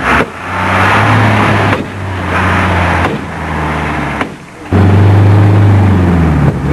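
Old car engine driven at high revs in long held bursts, with brief lifts off the throttle between them; the last burst is the loudest.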